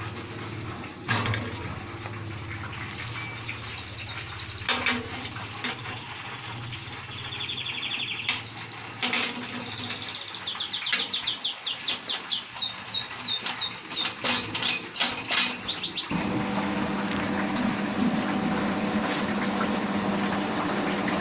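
A small songbird chirping, then singing a quick run of repeated high, downward-sweeping whistles, over a low machine hum. About sixteen seconds in, a machine motor switches on suddenly and runs steadily.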